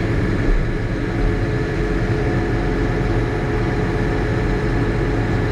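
John Deere 8320 tractor's diesel engine running steadily at an even speed, with no revving.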